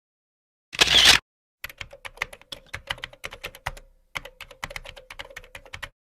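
A short loud rush of noise about a second in, then typing on a computer keyboard: rapid key clicks for about four seconds, with a brief pause partway through.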